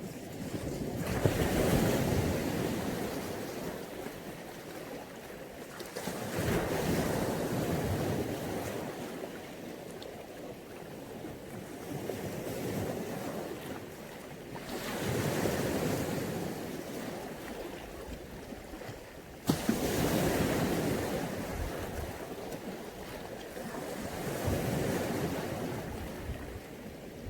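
Small Mediterranean waves breaking on the beach and washing back, swelling and fading about six times, every four to five seconds. One wave breaks with a sharper crash a little past two-thirds of the way through.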